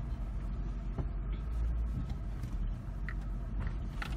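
Car's engine and tyres heard from inside the cabin as it creeps forward: a low, steady rumble, with a faint click about a second in.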